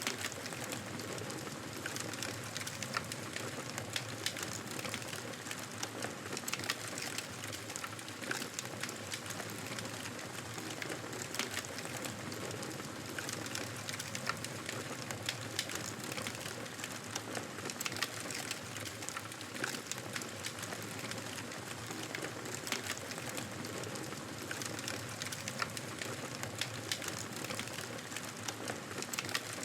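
Fire burning in a fireplace: a steady hiss of the flames with frequent short, sharp crackles and pops.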